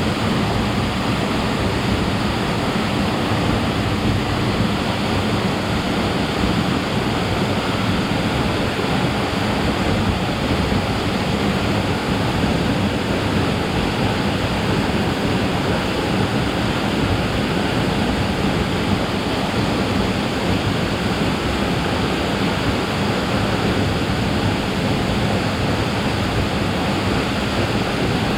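Waterfall rushing steadily, a loud, unbroken wash of falling water.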